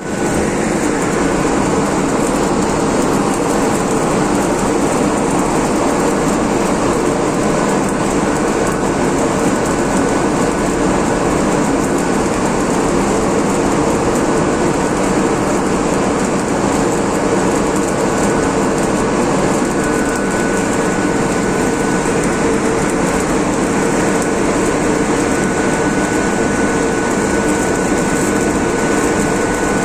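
Loud, steady machinery noise running without a break, with a faint high steady tone joining about two-thirds of the way in.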